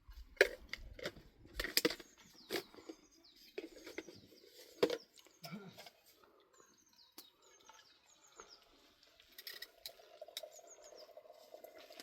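Small birds chirping repeatedly in short high notes, with a run of sharp knocks and clatters through the first half. A steady mid-pitched drone comes in after about nine seconds.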